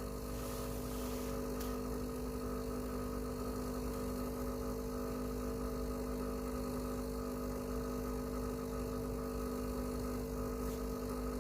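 Breville Barista Pro espresso machine's vibratory pump humming steadily at one constant pitch while it pushes water through the puck during a shot extraction.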